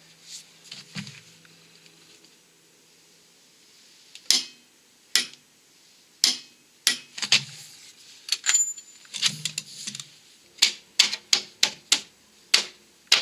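Sharp metallic clicks from a hand wrench on the hub nut, a dozen or more at irregular spacing from about four seconds in. This fits a click-type torque wrench tightening the hub nut to torque.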